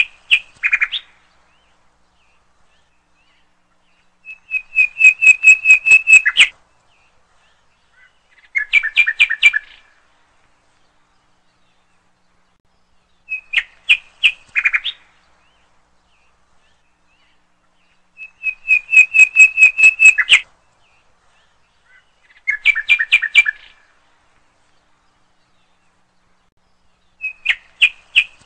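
A songbird's song: phrases of rapid, evenly spaced chirping notes, each one to two seconds long, with dead silence between them. The same three-phrase pattern repeats about every 14 seconds, as from a looped recording laid over the video rather than sound picked up at the lake.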